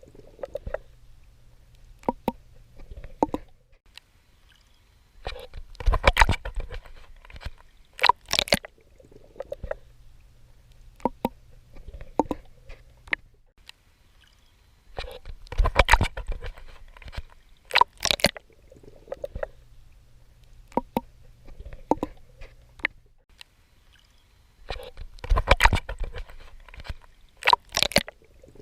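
A swimmer's strokes splashing and sloshing at the water's surface, in clusters that come about every ten seconds. A faint low hum lies between the clusters.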